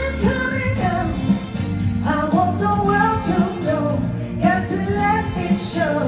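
A high-voiced singer sings a melodic phrase over a live band accompaniment with a steady beat and bass.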